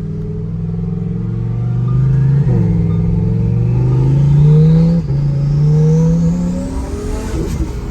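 Twin-turbo Lamborghini engine accelerating hard through the gears: the engine note climbs, drops sharply at quick upshifts about 2.5 and 5 seconds in, climbs again, then the driver lifts off near the end. A faint high whistle rises along with the engine note.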